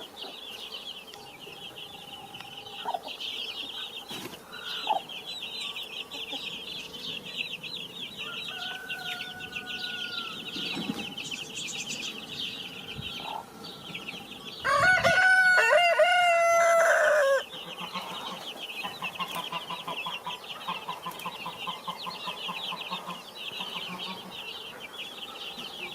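Chickens: a constant chorus of high chick peeping, with a few hen clucks. A rooster crows once, loud and long, about 15 seconds in.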